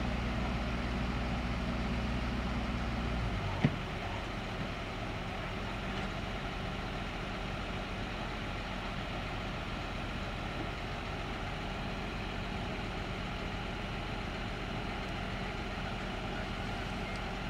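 Heavy diesel truck engine running at a raised, steady speed, then dropping to a lower idle about three and a half seconds in, with one sharp clunk at the change; it then idles steadily.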